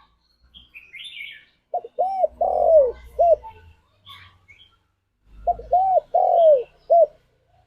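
Spotted dove cooing: two phrases of four hooting notes each, the third note the longest and falling away at its end. Faint chirps of small birds sound between the phrases.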